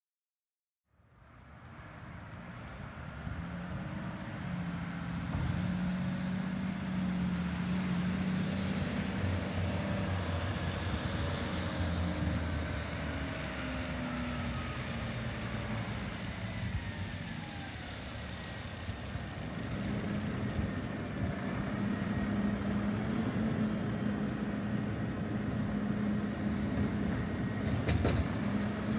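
Garbage truck engine running, fading in about a second in and holding a steady low note that dips and rises again in pitch, with a few sharp knocks near the end.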